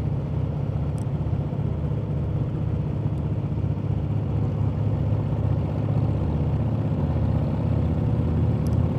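Harley-Davidson V-twin motorcycle engine running steadily at cruising speed, its low, even drone unbroken throughout.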